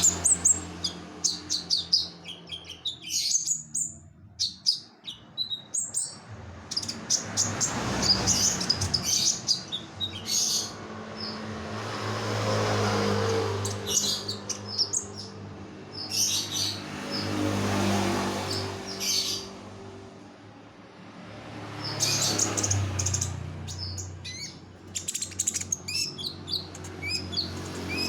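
A konin songbird singing rapid bursts of high chirps and trills in phrases broken by short pauses. Beneath it a low hum swells and fades several times.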